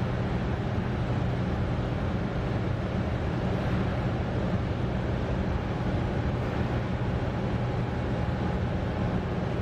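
Cessna 210's piston engine and propeller droning steadily in the cockpit at approach power, with the landing gear down.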